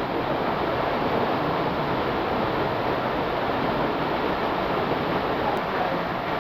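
Steady rush of canyon water: a mountain stream pouring through a gorge, an even noise without breaks.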